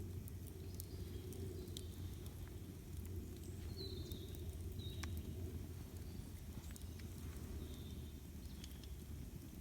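Campfire crackling, with scattered sharp pops over a steady low rumble. A few short high bird chirps come about four and five seconds in and again near the end.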